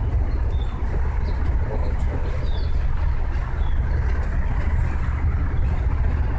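Steady low rumble of outdoor background noise, with a few faint high chirps in the first half.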